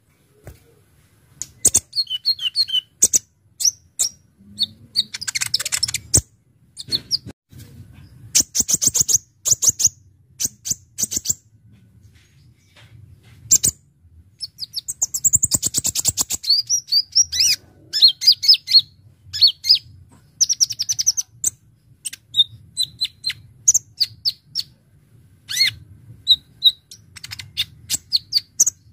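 Kolibri ninja (brown-throated sunbird) singing hard: rapid runs of sharp, high chirps and fast trills in bursts with short pauses between, its song filled with notes copied from other songbirds.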